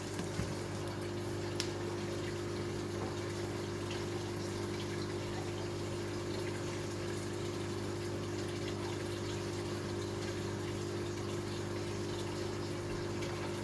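Aquarium filtration running: a steady pump hum with water flowing and splashing through the sump system.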